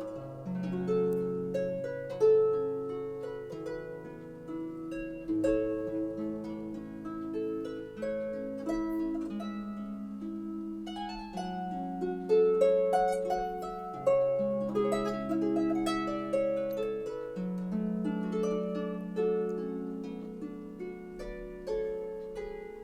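Solo harp music: a gentle melody of plucked notes that ring and fade, over low bass notes.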